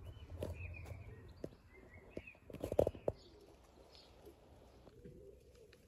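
Garden birds chirping over a faint outdoor background, with a few sharp knocks, the loudest a quick cluster about three seconds in. A low cooing call starts near the end.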